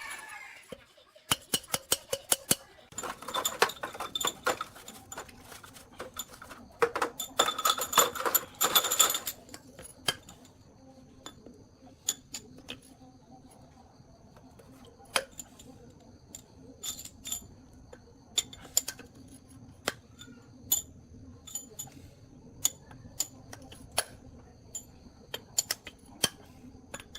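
Metal tools and machine parts clinking and tapping as they are handled, in quick clusters of clicks early on and scattered single taps later.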